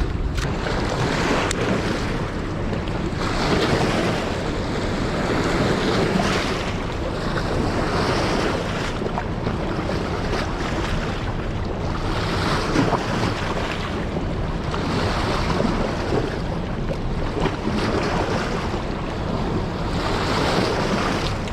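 Water rushing through the lock and dam spillway, a steady loud rush that swells and eases every few seconds, mixed with wind buffeting the microphone.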